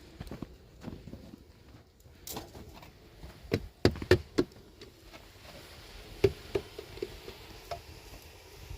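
A shovel working snow: irregular knocks and scrapes, with a loud cluster of blows about four seconds in and a single knock about six seconds in.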